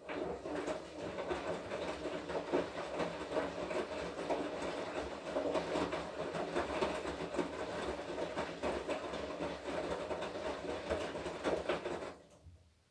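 Washing machine running a wash cycle: the drum turns and tumbles the laundry with a steady clattering rattle, then stops about twelve seconds in as the drum pauses.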